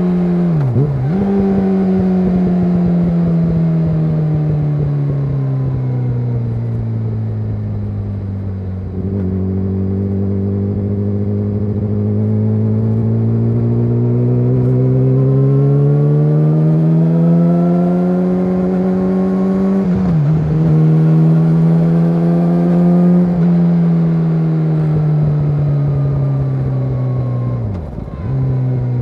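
Yamaha YZF-R6's inline-four running through an SC-Project SC1-R exhaust while riding. The engine note slowly falls, climbs again and falls, with a brief sharp dip in pitch about a second in, about two-thirds through and near the end.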